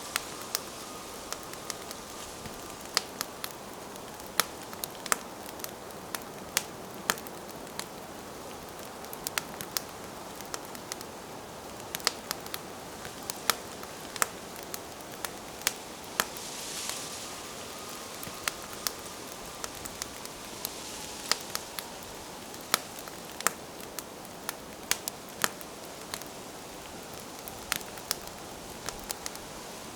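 Wood campfire burning, crackling with sharp irregular pops, two or three a second, over a steady soft hiss.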